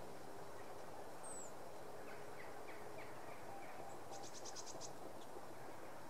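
Faint calls of small songbirds over a steady background noise: a short high downward whistle about a second in, a run of soft chips, then a rapid high trill of about eight notes about two-thirds of the way through.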